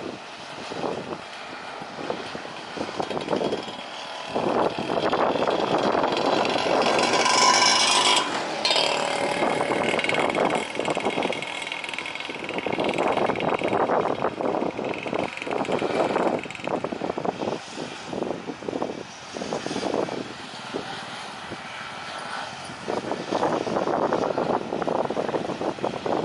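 Road traffic passing: vehicle engines and tyres in uneven swells, loudest about seven to eight seconds in.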